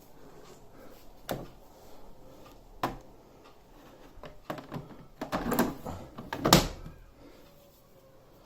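Knocks and clatter of a washing machine's panels being handled: a couple of single knocks, then a busier run of rattling ending in the loudest knock near the end.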